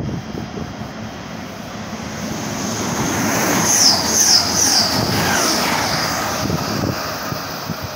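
Train passing close by the platform. A rushing noise builds over a few seconds, peaks in the middle with a high wavering squeal, then fades away.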